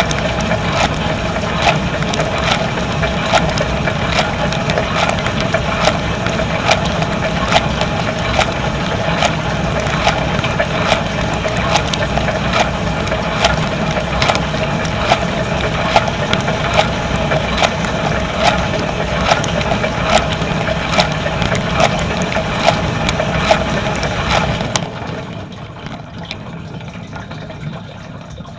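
Dishwasher running its wash cycle, heard from inside the tub: a steady pump hum with spraying, splashing water and frequent sharp ticks. Near the end the pump cuts off suddenly and only quieter water sounds remain.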